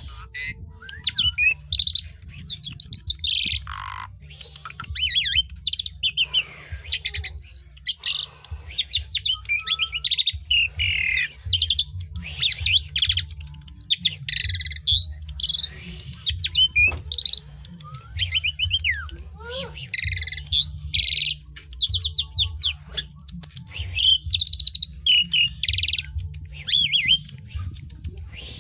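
Asian pied starling singing a long, varied song: rapid chattering runs, whistles and harsh squawky notes in bursts of a second or two, with brief gaps between.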